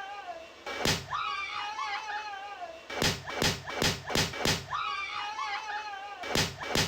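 Giant balloons bursting with sharp pops, one about a second in and then quick runs of several close together, with high wavering screams between the bursts.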